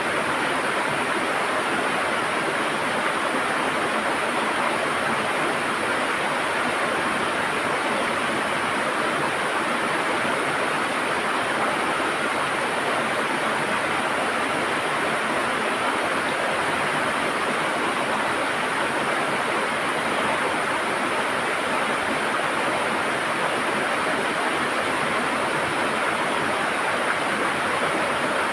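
River water rushing and gurgling over stones, a steady, even flow with no breaks.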